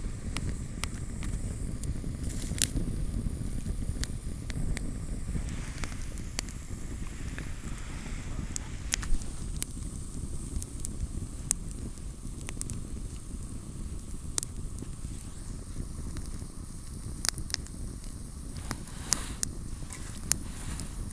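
Campfire burning, with irregular sharp crackles and pops over a steady low rumble; the pops come thicker near the end.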